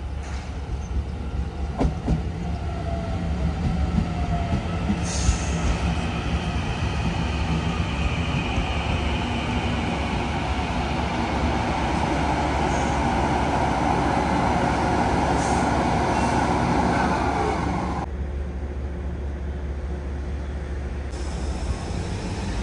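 Taiwan Railway train running through a station: a steady rumble of wheels on rail with a few sharp clicks in the first seconds, growing louder toward its peak in the second half, then the higher noise drops away abruptly.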